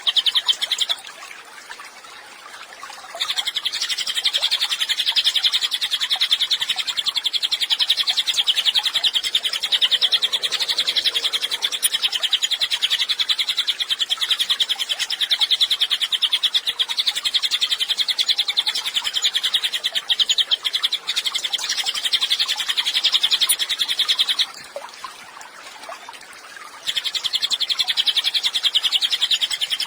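Cililin bird singing a very fast, high, unbroken trill in long phrases, breaking off twice for about two seconds.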